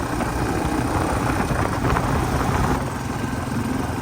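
Yamaha TW200's single-cylinder four-stroke engine running steadily.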